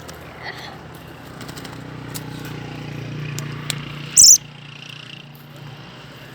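A bird gives one short, very high-pitched chirp about four seconds in, the loudest sound here. Under it, a low hum swells and fades through the middle.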